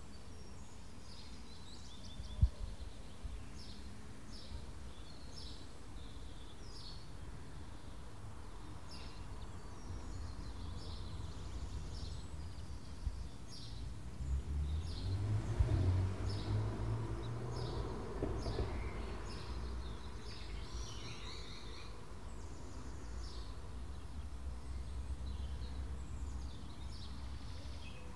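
Garden birds chirping, short repeated calls over a steady outdoor background. A single sharp knock sounds about two seconds in, and a low rumble swells and fades in the middle.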